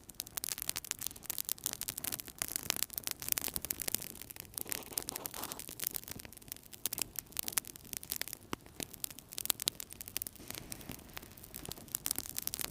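Wood fire crackling in a fireplace: a dense run of small sharp pops and snaps over a steady hiss of burning.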